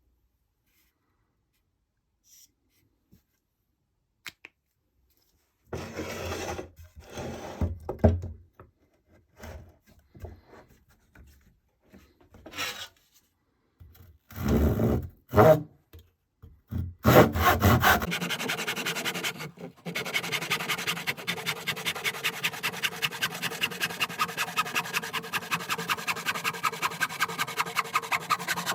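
Rasp strokes on a wooden hatchet handle being shaped. It starts with a few scattered scrapes and knocks, then from about two thirds of the way in settles into quick, even back-and-forth strokes, about four a second.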